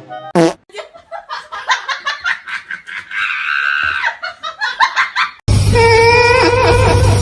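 A person laughing hard in rapid fits, with a held high-pitched stretch in the middle. About five and a half seconds in it cuts abruptly to loud, steady rushing noise with a few pitched sounds over it.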